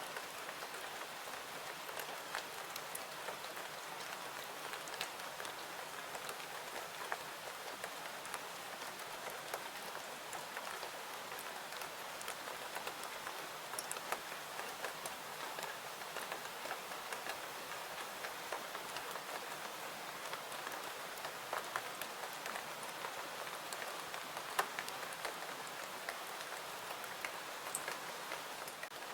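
Steady rain falling, an even hiss with many small sharp clicks scattered throughout.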